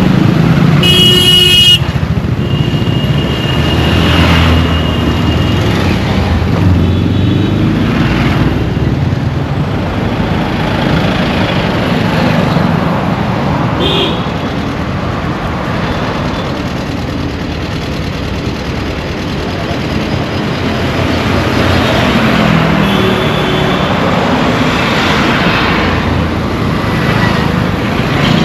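Busy road traffic with vehicle engines running and horns honking. A loud horn blast sounds at the start and cuts off about two seconds in, and shorter toots follow later.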